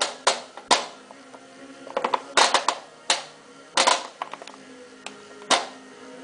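Clusters of sharp clicks and knocks from the controls of a Whirlpool AWM4066 washing machine being worked, a second or more apart, over music playing in the background.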